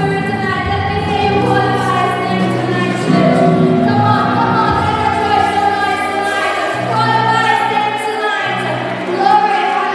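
Gospel worship music: a group of voices singing with sustained notes over a steady instrumental backing.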